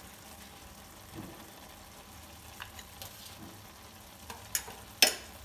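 Faint steady sizzle of carrot halwa cooking in ghee in a kadai, with a few light clicks of a spoon working in the pan and one sharp knock of the spoon against the kadai near the end.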